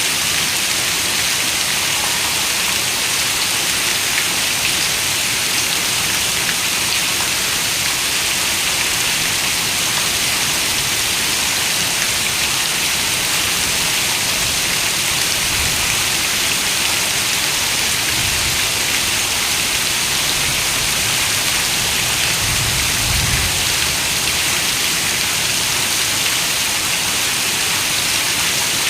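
Steady rain falling against a window: an even, unbroken hiss of many raindrops.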